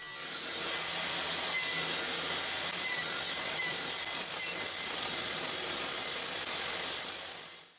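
Table saw running with a single standard blade, nibbling away the waste wood between two finger-joint cuts as the sled is pushed over it: a steady whirring noise with a thin high whine, fading out near the end.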